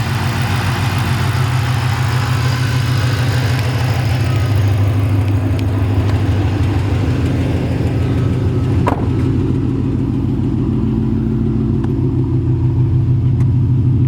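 Supercharged 5.4-litre V8 of a 2008 Shelby GT500, fitted with aftermarket headers and exhaust, idling steadily with a deep rumble. There is one brief click about nine seconds in.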